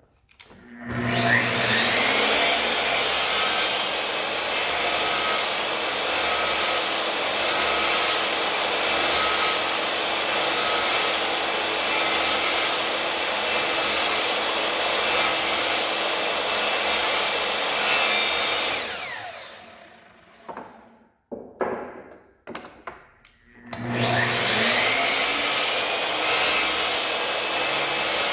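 An electric power tool spins up and works wood steadily, with an even rhythm of about one stroke a second. It winds down about two-thirds of the way through, a few knocks follow, and then it spins up again near the end.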